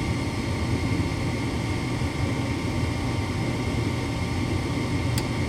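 Gas furnace's draft inducer motor running steadily, with no burner lighting: the gas valve has 24 volts but is not opening. A brief click about five seconds in.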